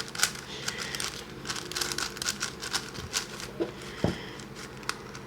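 New, tight MoYu plastic speedcube being turned by hand: a run of small, irregular plastic clicks and rattles as the layers turn, on a cube whose first turns feel a bit sandy. A low thud about four seconds in.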